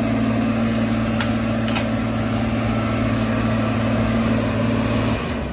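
Engine of a heavy machine running steadily at a constant pitch, dropping away about five seconds in.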